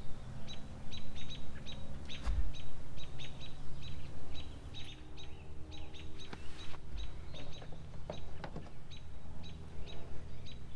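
A bird calling nearby with short, high chirps repeated about three times a second. A couple of soft knocks are heard about two seconds in and again around eight seconds.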